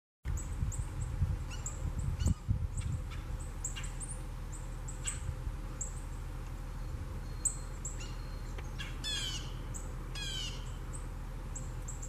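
Wild birds calling: many short, high chirps repeating, and two longer harsh, falling calls about nine and ten seconds in.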